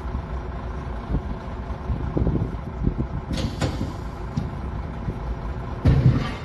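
Heavy diesel equipment running with a steady low rumble, with a sharp noise about three seconds in and another near the end.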